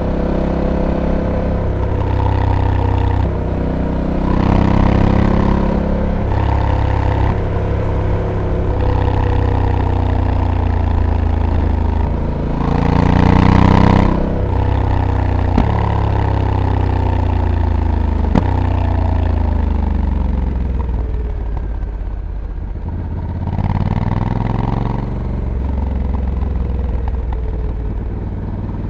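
Honda Africa Twin's 1084 cc parallel-twin engine under way, repeatedly revving up and dropping back as the dual-clutch gearbox shifts, loudest under acceleration about halfway through, then easing down to a low engine note before pulling again near the end. A sharp click sounds once, a little past halfway.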